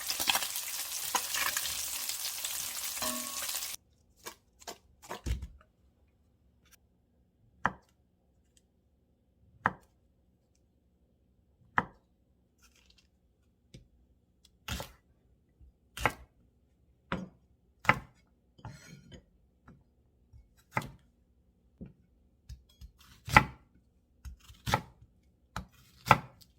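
Knife slicing a block of Spam on a cutting board, with sharp knocks against the board at irregular intervals of a second or two. It is preceded by a few seconds of dense noise that cuts off abruptly about four seconds in.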